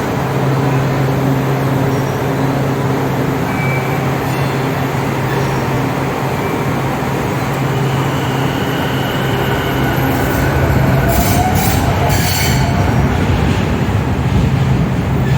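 MBTA Green Line light-rail train pulling out of an underground station, with a steady low motor hum. About ten seconds in, its wheels squeal and hiss on the rails for a couple of seconds.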